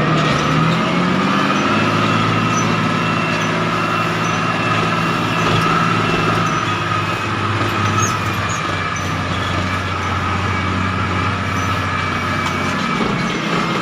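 Belarus MTZ-1221 tractor's diesel engine running steadily, with a constant high whine over the engine note; the revs rise slightly about a second in.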